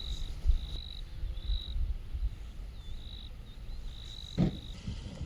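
Frogs calling at night: a high-pitched trill held in stretches of up to about a second, broken by short gaps, over a low rumble of wind on the microphone. A single thump sounds about four seconds in.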